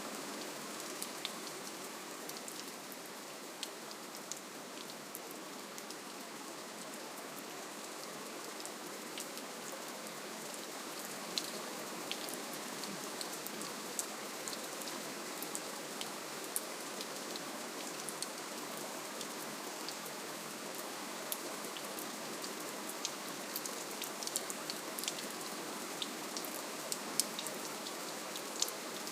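Steady gentle rainfall, an even hiss of rain with many small distinct drop ticks scattered throughout.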